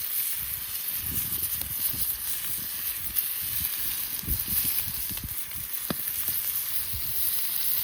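Wood campfire burning: a steady hiss with scattered crackles and a sharp pop about six seconds in.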